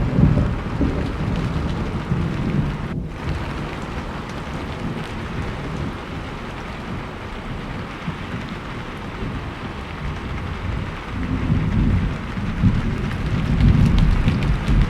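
Steady rain with rolling thunder: a low rumble dies away in the first couple of seconds, and another rolls in about eleven seconds in, loudest near the end.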